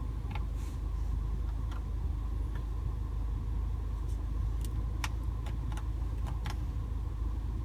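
2015 MINI Cooper S Countryman's turbocharged 1.6-litre four-cylinder idling steadily, heard as a low rumble from inside the cabin, with a few faint clicks.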